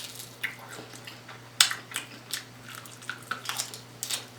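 Close-up mouth sounds of chewing food: irregular wet smacks and clicks, a dozen or so scattered through, over a steady low electrical hum.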